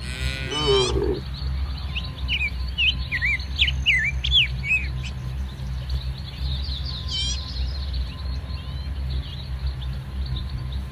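Small birds chirping in quick, short calls over a steady low rumble, just after a short cow call at the very start.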